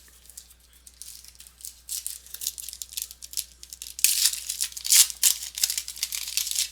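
Trading-card pack wrapper being crinkled and torn open, with card handling: a run of short rustling strokes that grows louder about four seconds in.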